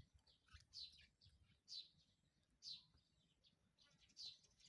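A bird calling faintly, a short high falling chirp repeated about once a second.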